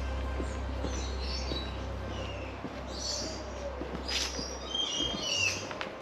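Birds chirping and calling: many short high chirps, with a couple of falling whistled notes about five seconds in. Under them is a steady low rumble that stops about five seconds in.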